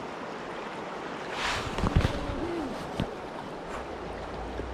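Steady rush of river water, with a couple of low thumps about two seconds in.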